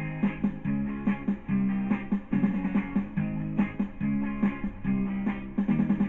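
Instrumental intro of a karaoke backing track: guitar playing a rhythmic strummed pattern with bass, before the vocal comes in.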